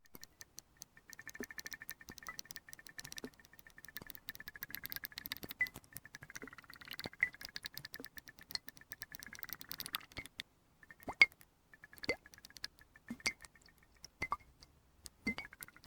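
Small water sounds in glass. For about ten seconds there are dense fine ticks and crackles over a faint wavering tone, then single drips or plops come about once a second.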